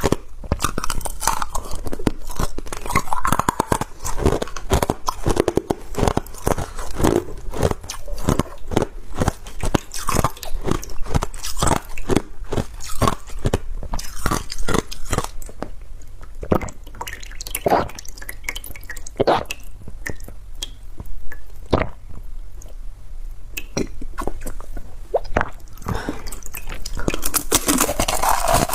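A person biting and chewing ice: fast runs of crisp crunching and crackling, thinning to separate cracks for several seconds past the middle, then dense again near the end.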